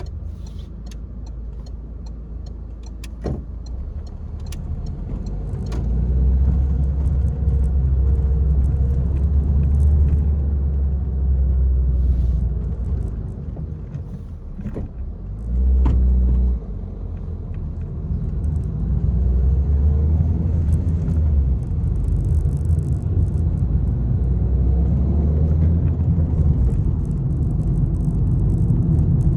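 Peugeot 301 being driven: a low engine and road rumble that swells and eases several times, with scattered light knocks and rattles.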